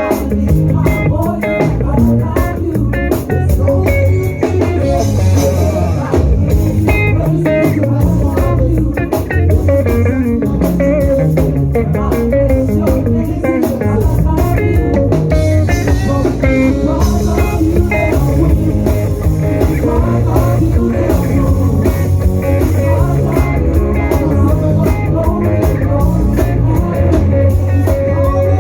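Live gospel praise band playing an upbeat, driving groove: electric guitar lines over bass guitar and a drum kit, with busy, quick notes throughout.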